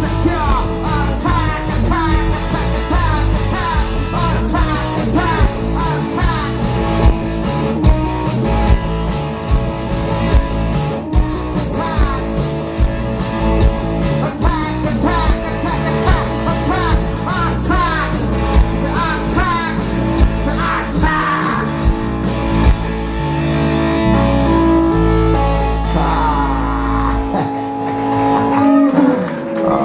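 Rock band playing live: electric guitar, bass and drums in an instrumental section with bending lead guitar lines. The drums stop about three quarters of the way through, and the last held chords ring out near the end as the song finishes.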